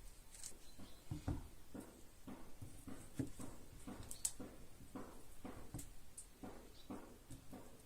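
A run of light, irregular knocks and taps, about two a second, with a sharper click about four seconds in.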